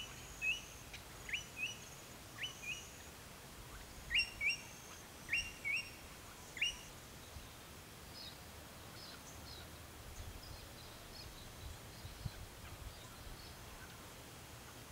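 Birds calling: a run of short, sharp chirps, many in pairs, then fainter, higher chirps in the second half.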